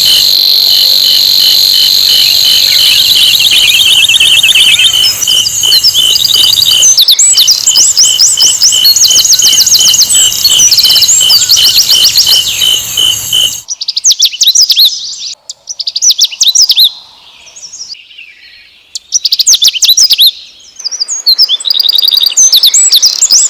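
Sikatan londo flycatcher song: rapid, high-pitched repeated trills and chirps. For the first half a steady, evenly pulsing high tone runs under the song, then cuts off abruptly. After that the singing is sparse and broken for several seconds before the dense trilling resumes near the end.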